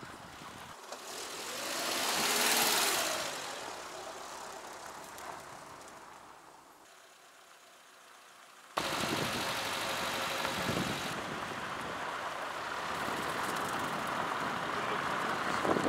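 A vehicle passes, its noise swelling and then fading away. About nine seconds in, steady engine and road noise of a car on the move cuts in abruptly and runs on.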